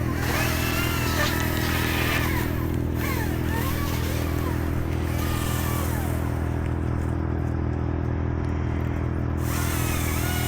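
Chainsaw engine idling steadily, with faint sliding high-pitched squeaks coming and going over it.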